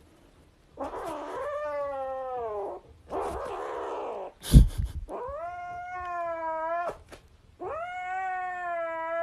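Grey kitten yowling: three long, drawn-out caterwauling calls, with a shorter, rougher call between the first two. A sharp knock comes about halfway through.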